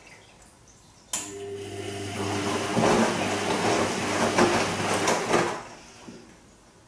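Bosch Serie 2 Vario Perfect washing machine's motor starting abruptly and turning the drum for about four seconds, with a steady hum and the swish of wet laundry and water, then stopping: a gentle tumbling stroke of the Silk wash programme.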